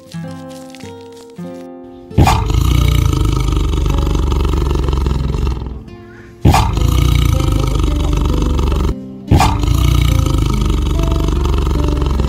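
A big cat roaring three times, each roar a heavy rumble of about three seconds that starts sharply. Plucked background music plays alone for the first two seconds.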